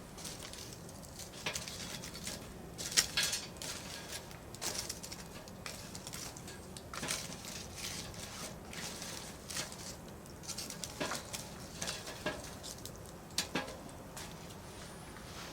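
Firewood burning in a campfire, crackling with scattered sharp pops over a soft hiss, the loudest pop about three seconds in.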